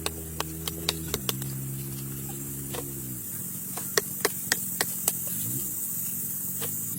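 A steady motor hum that steps down in pitch about a second in and again about three seconds in, with sharp irregular clicks scattered over it.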